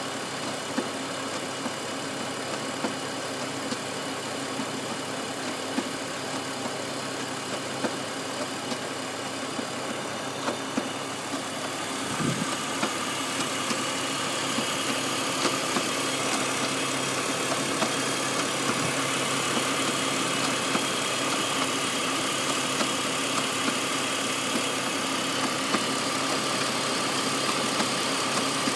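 2001 BMW 330Ci's straight-six engine idling with an irregular, galloping tick, sharp ticks coming every second or two. About twelve seconds in the overall sound grows louder.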